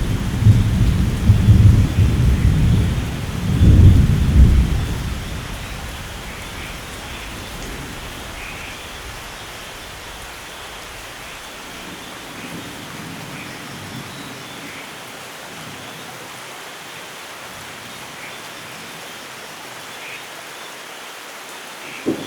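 Thunder rumbling loudly in the first few seconds, peaking at about four seconds and fading out by about six, over steady heavy rain. The rain then goes on alone, with a brief sharp crack near the end.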